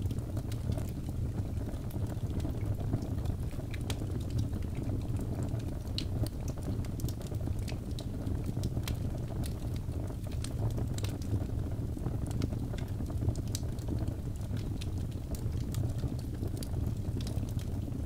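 Birchwood log fire crackling: a steady low rumble of flames with frequent sharp pops and snaps scattered irregularly throughout.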